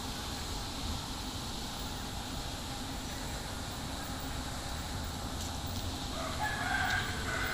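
A rooster crowing once, a drawn-out call near the end, over a steady low background hum.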